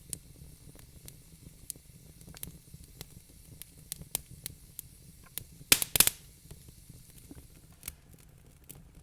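Wood fire crackling: scattered sharp pops and snaps over a faint hiss, with a loud cluster of pops a little under two-thirds of the way through.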